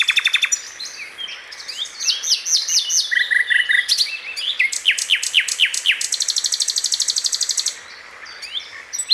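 Songbird singing a varied run of rapid trills and quick downward-sliding whistled notes, with a long, fast, high trill starting about six seconds in and stopping near eight seconds.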